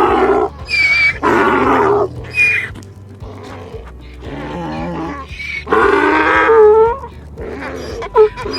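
Donkey braying: a series of loud, harsh calls, each about half a second to a second long, over background music.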